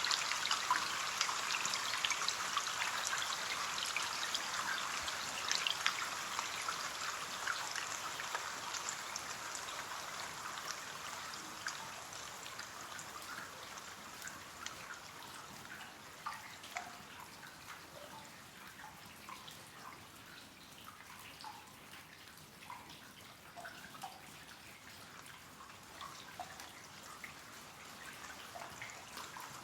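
Rain falling on a window pane: dense fine drop ticks that thin out over the first ten seconds or so into scattered single drops and drips.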